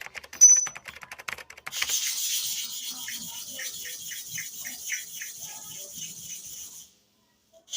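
Clipper blade being sharpened by hand: a patter of light clicks, then a high scraping, rubbed back and forth at about four strokes a second, stopping abruptly near the end.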